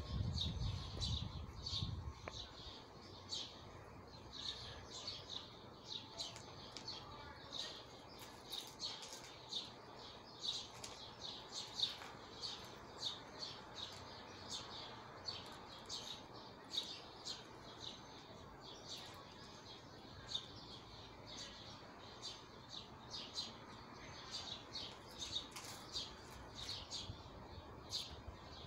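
Small birds chirping, short high chirps repeating about once or twice a second, with a low rumble in the first two seconds.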